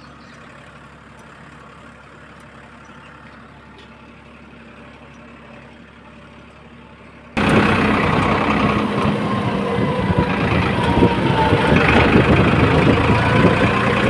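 Farmtrac tractor's diesel engine running fast on the road. It is faint and steady at first, then about seven seconds in it suddenly becomes much louder and busier and stays that way.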